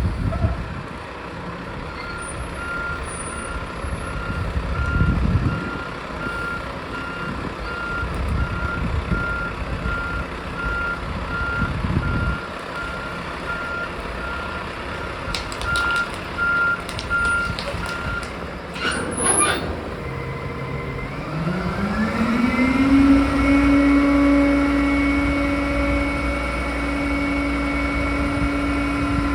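Roll-off dumpster truck's reverse alarm beeping in a steady run for about sixteen seconds over the idling diesel engine. A brief burst of noise follows, then the engine revs up and holds at a high steady speed to the end.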